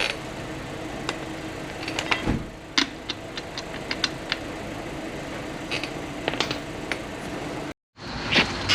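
Scattered light metallic clicks and taps of hand tools working on a strut and its spring compressor, over a steady low hum. The sound cuts out completely for a moment near the end.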